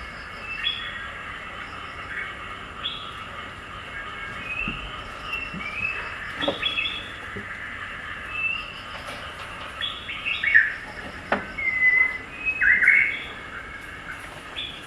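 Birds chirping: many short calls and quick whistled slides, some rising and some falling, busiest and loudest in the second half.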